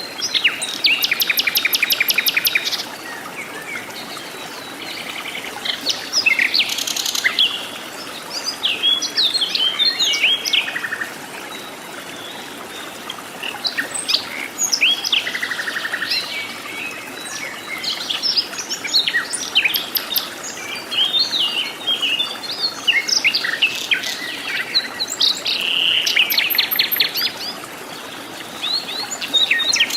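Mixed birdsong in a tropical jungle: several birds chirping and whistling in short, gliding notes. There are rapid pulsed trills near the start and again near the end, over a steady background hiss.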